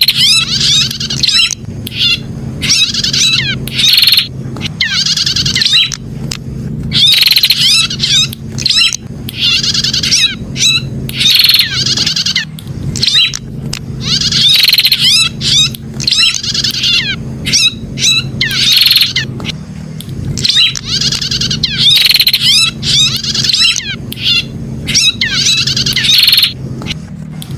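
Prinia (prenjak) calling: loud bursts of sharp, rapid chirps, one after another about every second, with a steady low hum underneath.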